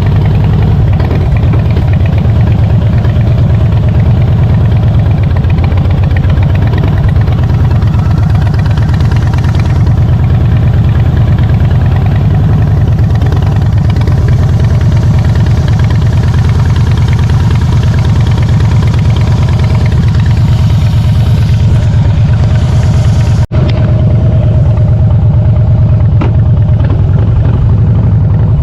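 A Harley-Davidson Softail Standard's V-twin engine running steadily and loudly. The bike is being run for a test ride after its rear wheel was refitted, to check that the drive belt tracks true. The sound cuts out for an instant near the end.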